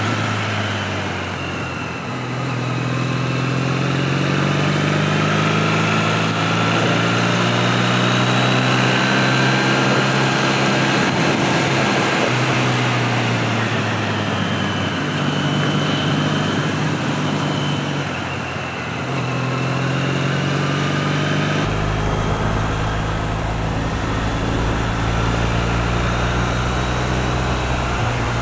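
2008 Triumph Bonneville parallel-twin engine running at road speed, its note sagging twice and picking up again, with wind rush over it. A deeper low rumble comes in near the end.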